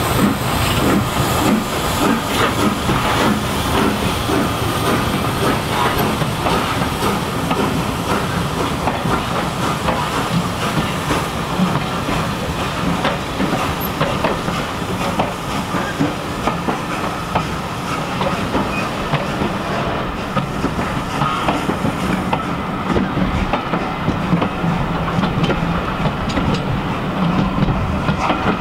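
Passenger coaches of a steam-hauled train rolling slowly past, their wheels clicking over the rail joints, with a steady hiss of steam from the locomotive pulling away ahead.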